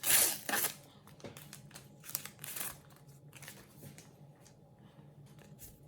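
Foil sticker packet wrapper being crinkled and torn open, with a loud crinkle at the start and another about two seconds in, then faint rustling and small ticks of stickers being handled.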